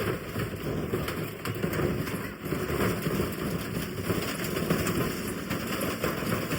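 Washing machine being wrecked: a continuous loud clatter and rattle, dense with rapid knocks and crackles.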